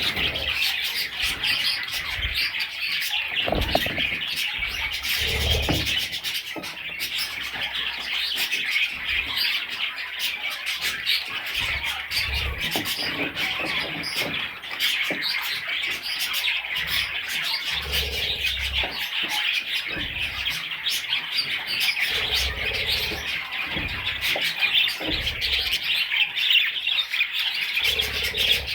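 Budgerigars chirping and chattering continuously, many calls overlapping into a dense twittering, with a few short low bumps now and then.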